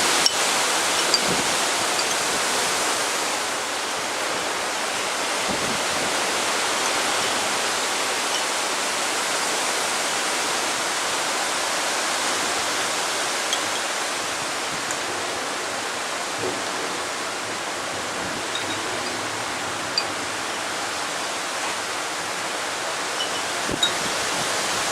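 Steady rushing noise of a dry microburst's strong downdraft wind, even and unbroken, with a few faint scattered ticks.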